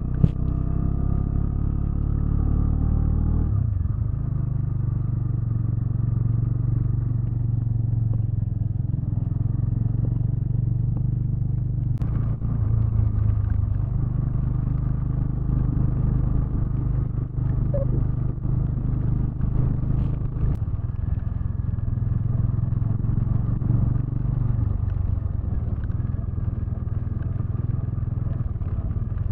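Motorcycle engine running steadily while riding, with a falling pitch about three seconds in and a sharp click about twelve seconds in.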